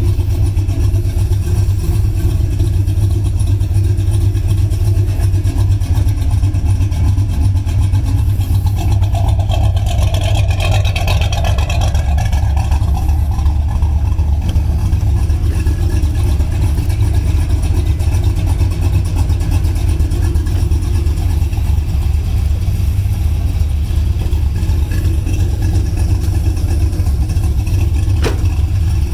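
Freshly rebuilt engine of a 1984 Chevrolet Camaro idling steadily with a low, even rumble.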